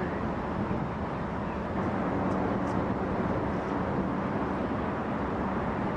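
Steady low rumble and noise of a train in motion.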